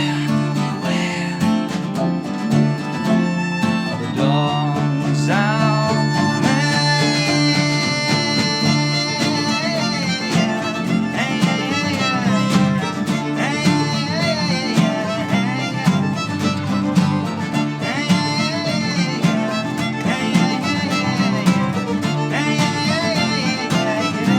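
Live band playing an instrumental passage: a violin melody with vibrato over guitar and sustained chords.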